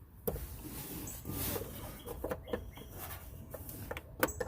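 Hands and a tool working a small screw into the blower motor mounting: scattered clicks, scrapes and short high squeaks, with a sharp click near the end.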